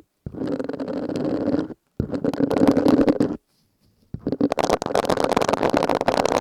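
Silicone scrubbing sponge rubbed and squeezed right at the microphone, making a dense, crackly squishing. It comes in three strokes with silent gaps between them, the last the longest.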